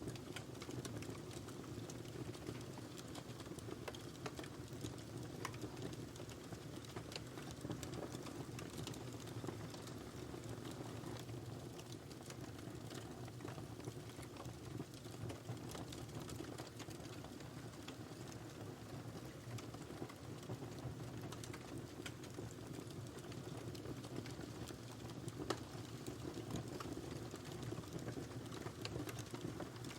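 Wood fire burning in a fireplace: a steady low rumble of flames with frequent small crackles and pops scattered throughout, one sharper pop a little past halfway.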